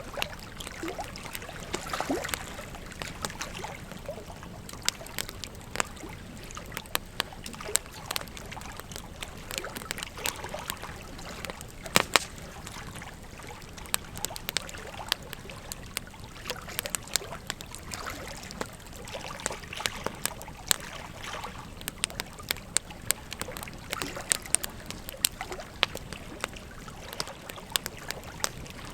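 Wood fire crackling with frequent sharp pops and snaps, the loudest about twelve seconds in, over the steady rush of a flowing river.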